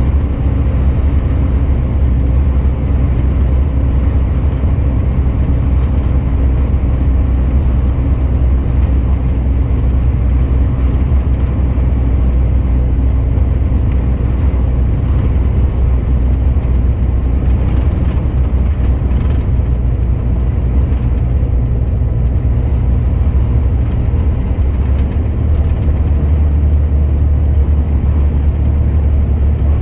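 Truck engine running steadily with road noise while driving at an even speed, a constant low drone.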